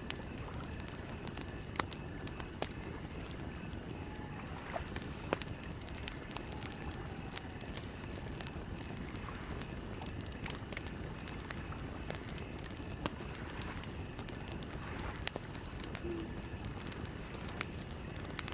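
Campfire burning with a steady low rush and scattered sharp crackles and pops from the wood.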